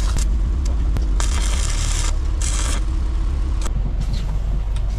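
Car engine running with a steady deep exhaust rumble. Short bursts of hissing scrape come about a second in and again about two and a half seconds in.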